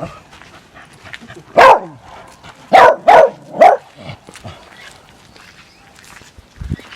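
A dog barking: one bark, then three quick barks about a second later.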